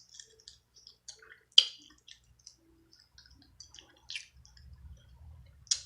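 Crab shell clicking and cracking, with small wet, squishy sounds, as crab cluster meat is picked out and eaten. Scattered light clicks, with a sharper crack about a second and a half in and two more later.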